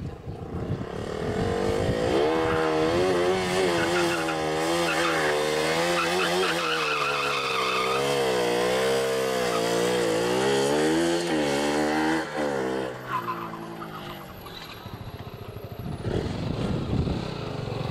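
Sport bike engine revving hard for about ten seconds, its pitch swinging up and down with the throttle during a stunt, with tyre skid noise. About thirteen seconds in it falls away, and engine noise rises again near the end.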